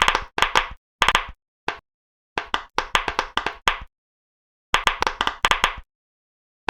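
Pop-it fidget toy popping: quick runs of sharp pops in about five bursts, with dead silence between them.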